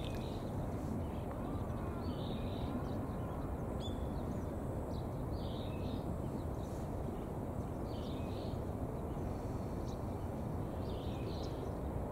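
Steady low outdoor background noise by the water, with faint short bird calls repeating every second or two.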